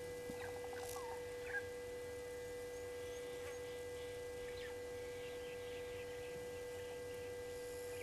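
Faint wild bird calls: scattered short chirps and whistled notes, with one sharper, louder note about one and a half seconds in, over a steady hum.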